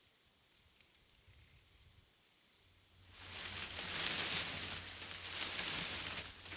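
Forest ambience with a faint, steady, high insect note. About three seconds in, a louder rushing noise swells up and wavers.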